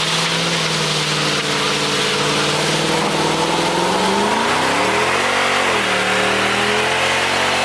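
Mercedes-Benz W221 S63 AMG's M156 V8 engine and exhaust running loudly at a steady pitch. About four and a half seconds in it revs up, then drops back a second later.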